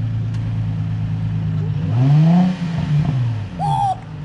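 Car engine idling steadily, then revved once about two seconds in, the pitch rising and falling back, before settling again.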